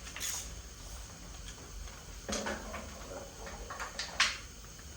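A few scattered metal clicks and knocks from parts and tools being handled, the sharpest about four seconds in.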